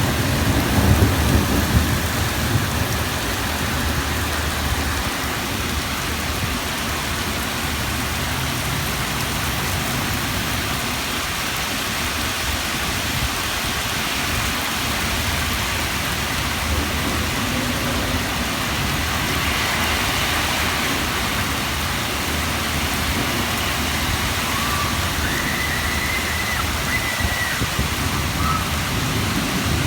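Heavy rain pouring down in a steady hiss, with a low rumble of thunder in the first few seconds.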